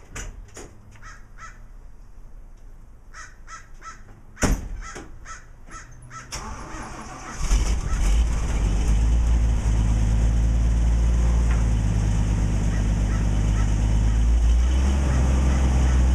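Crows cawing in short repeated calls, then a single thump about four seconds in. About seven seconds in, the Toyota Land Cruiser's engine starts and settles into a steady idle.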